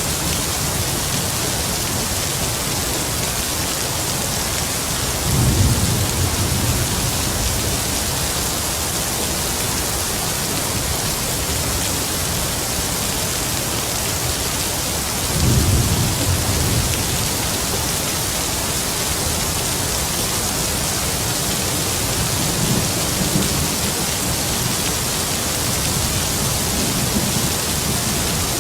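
Heavy rain falling steadily with a constant hiss, with distant thunder rumbling low several times: clearly about five seconds in and again around fifteen seconds, and more faintly later on.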